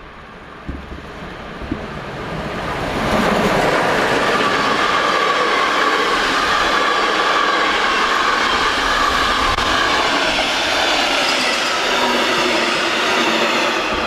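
Class 01 express steam locomotive 01 0509-8 and its train of carriages passing at speed, with the clatter of wheels over the rail joints. The sound builds over the first few seconds, stays loud and steady, then eases off near the end.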